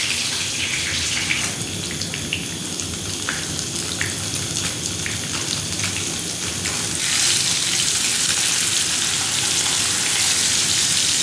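Salmon sizzling in a frying pan, with heavy rain falling on the shelter. The hiss grows louder about seven seconds in.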